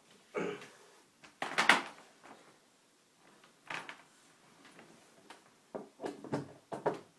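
A series of irregular knocks and clunks, a few seconds apart, with no motor running; the loudest cluster is about a second and a half in.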